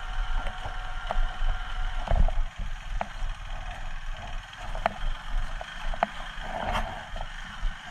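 KTM Duke 250 motorcycle engine running under load as the bike climbs a rough dirt hill road. Scattered knocks come from the bike jolting over stones and ruts.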